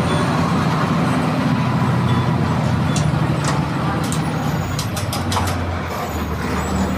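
MWM 6.12 TCE turbo-intercooled 7.2-litre six-cylinder diesel of a VW 17-230 EOD bus running, its note dropping about four seconds in. A few short sharp clicks in the middle.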